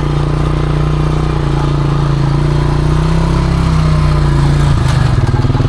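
ATV engine running steadily as the quad is ridden along the trail; about five seconds in, the engine note drops lower.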